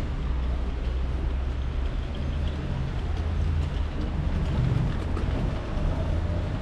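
Steady rain-and-street ambience: rain noise over a low, steady rumble from vehicle engines in the street.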